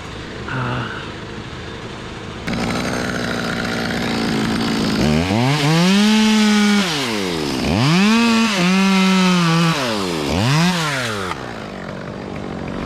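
Chainsaw running loudly, throttled up and back down three times, holding at full revs for a second or more each time. A second saw's steady engine note runs underneath.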